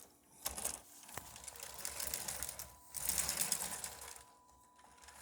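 Motorized Lego 6-4-6 locomotive model running on plastic track: its small electric motor and gears whir and its wheels clatter, with a couple of clicks about a second in. The sound swells and fades twice as the train passes.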